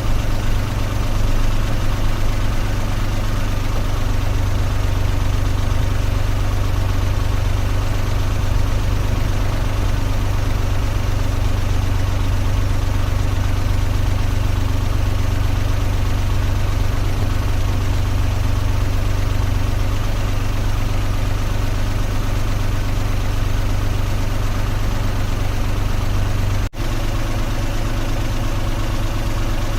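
Car engine idling steadily as a deep, even hum at a constant pitch, with a brief break in the sound near the end.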